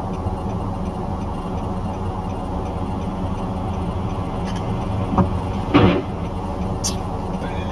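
Steady engine and road rumble of a moving car heard from inside the cabin, with two short thumps about five and six seconds in.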